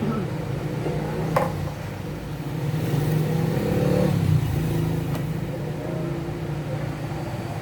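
A motor vehicle engine running, growing louder a few seconds in, with a sharp click about a second in and another about five seconds in.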